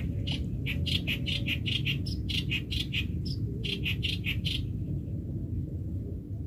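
A bird calling a fast run of short, evenly spaced notes, about five a second, that stops about four and a half seconds in, with a brief break after about three seconds. A steady low rumble lies underneath.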